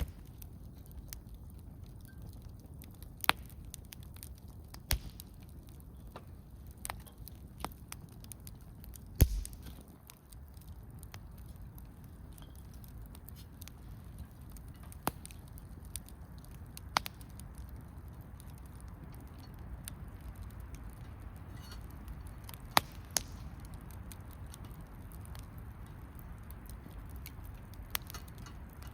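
Wood campfire crackling, with scattered sharp pops over a low steady hiss. The loudest pops come about three, nine and twenty-three seconds in, the one near nine seconds with a dull thump.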